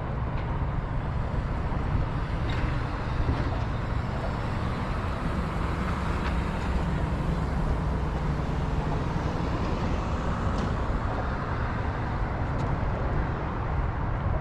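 Steady outdoor background noise dominated by a low rumble of road traffic, with a few faint ticks.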